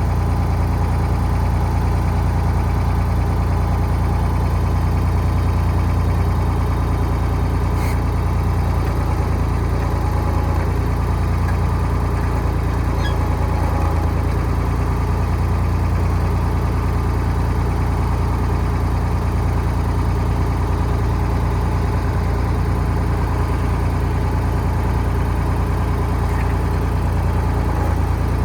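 Ford 4610 tractor engine idling steadily, a constant low running sound with no revving.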